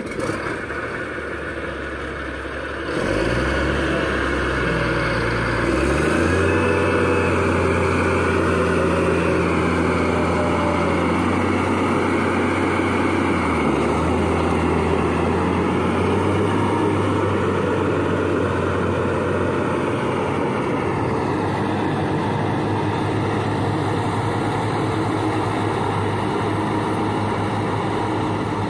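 A large engine on heavy machinery running: its revs climb in steps about three to six seconds in, then it runs steadily at the higher speed.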